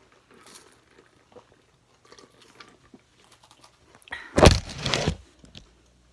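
Faint crunching and chewing of crisp wafer cookies, then about four seconds in a loud clattering rustle lasting about a second, right at the microphone.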